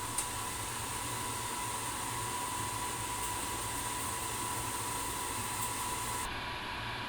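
Steady rushing noise with a faint steady whine. The high hiss drops away about six seconds in.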